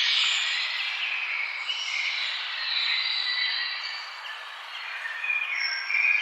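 A chorus of many birds chirping and singing at once, short high whistled notes overlapping without pause over a steady hiss.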